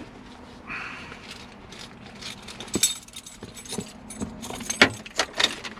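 Light clicks and rattles of small objects being handled, over a faint steady hum.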